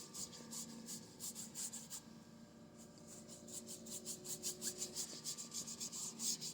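Paintbrush scrubbing acrylic paint onto canvas in quick back-and-forth strokes, about five a second, with a short pause about two seconds in. A faint steady hum runs underneath.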